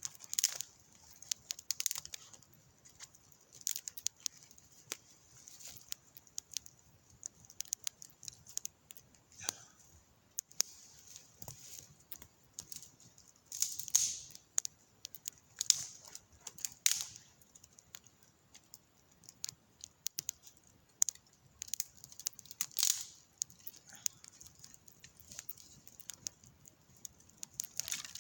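Campfire of wet wood crackling, with irregular sharp snaps and pops scattered throughout.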